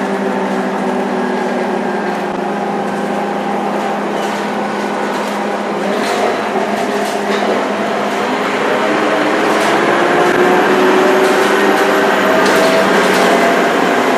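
Scania K230UB bus engine heard from inside the bus, running steady and then, from about halfway, rising steadily in pitch and getting louder as the bus accelerates through the ZF automatic gearbox. A faint high turbo whistle joins near the end, over light cabin rattles.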